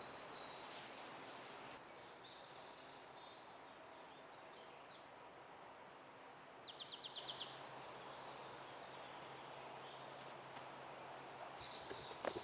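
Songbirds chirping over faint steady outdoor background noise, with a few short calls and a quick trill of rapidly repeated notes about halfway through.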